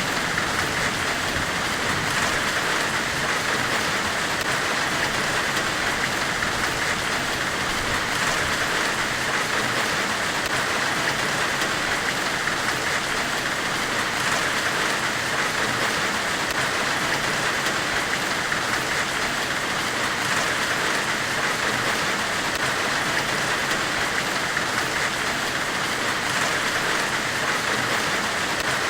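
Steady forge-weld white-noise hiss, even and unbroken, strongest in the upper-middle range.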